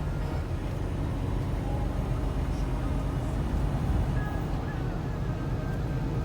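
Truck driving along, its engine and road noise making a steady low rumble.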